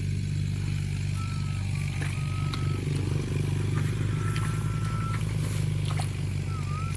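A small engine runs steadily throughout. Four short, steady high whistle-like tones sound over it, the last one dipping and rising.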